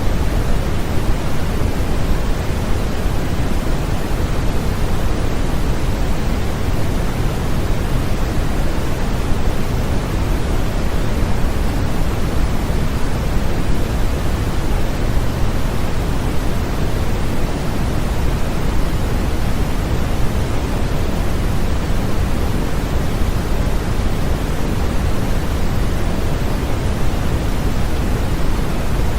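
Steady, unbroken electronic white noise, a constant hiss weighted toward the low end like pink noise, with no change in level.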